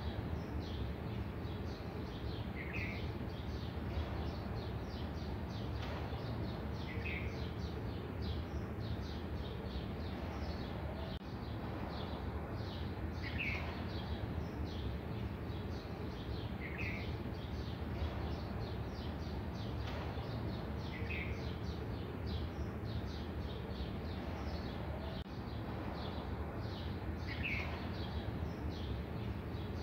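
Birds chirping steadily, with one bird giving a short, clear call every three to four seconds, over a steady low background noise.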